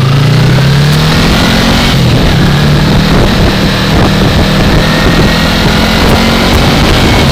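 2015 Yamaha R3's parallel-twin engine under way, its pitch rising over the first second and then holding fairly steady, with wind noise on the helmet-mounted microphone.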